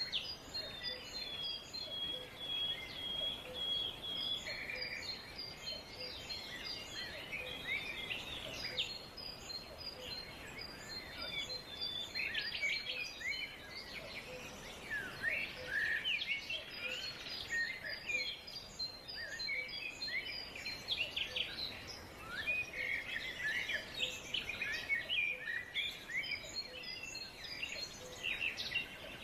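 Several forest birds calling and singing over one another in quick chirps and whistles, with one long, even high note held for a few seconds near the start.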